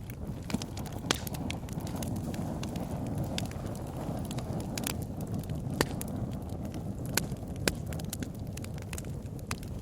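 Wood bonfire burning, a steady low rush of flames with irregular sharp crackles and pops, a few louder snaps scattered through.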